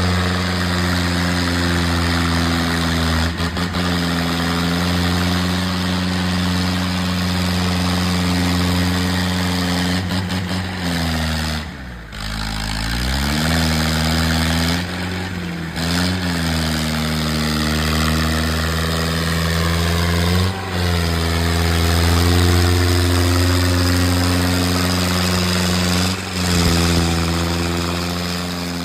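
Tractor engine running steadily. Its speed sags and climbs back several times, most deeply about twelve seconds in.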